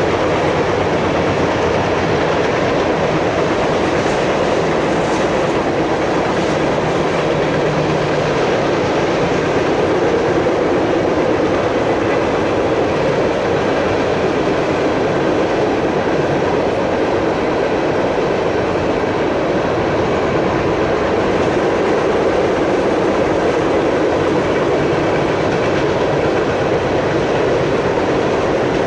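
Loaded open-top freight hopper cars rolling past close by: a steady, loud rumble of steel wheels on the rails that does not let up.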